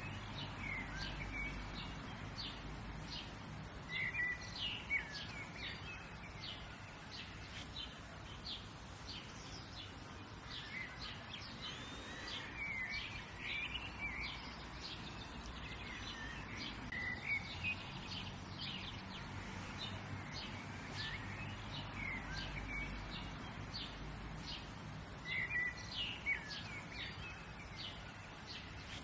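Wild birds chirping and singing, many short, quick high chirps that come in thicker bursts every several seconds, over a steady low background rumble.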